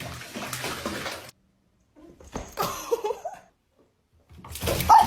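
Splashing water, then an animal's wavering, pitch-bending cries, twice, with short silent gaps between.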